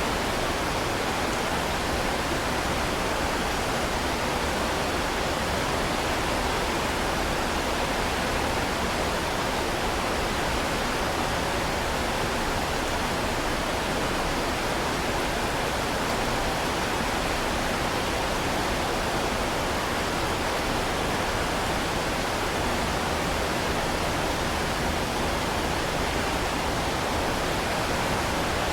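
Heavy rain falling as a steady, even downpour, with no separate drops, thunder or breaks standing out.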